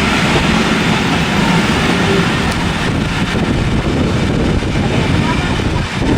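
A train running through, heard as a loud, steady noise with no distinct beats or pitch.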